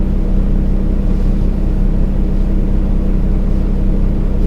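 Kenworth T680 semi truck's diesel engine idling steadily, heard from inside the cab.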